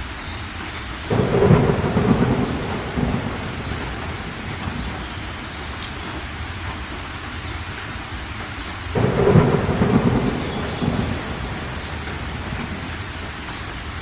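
Steady rain with two thunderclaps, one about a second in and one about nine seconds in. Each starts suddenly and rumbles for two or three seconds before fading back under the rain.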